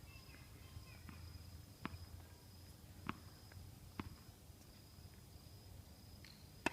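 Three sharp knocks of a tennis ball about a second apart, then one more near the end, over a faint steady high whine.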